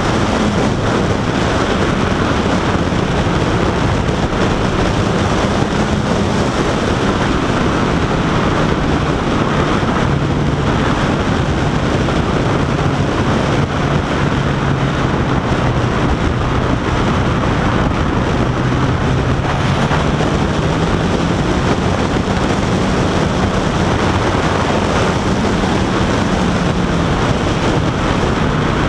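Honda CBR1000RR Fireblade's inline-four engine running at riding speed, its pitch drifting slowly up and down with small changes in throttle, under heavy wind rush on the microphone.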